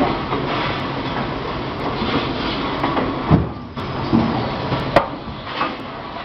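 Production-line machinery for water heater tanks running steadily in a factory, with a few sharp metallic knocks; the loudest comes about three seconds in and another near five seconds.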